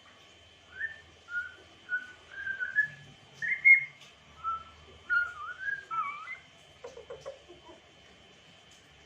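African grey parrot whistling a phrase of about a dozen clear notes, some sliding up or down in pitch, the loudest about halfway through, followed by a few softer, lower sounds.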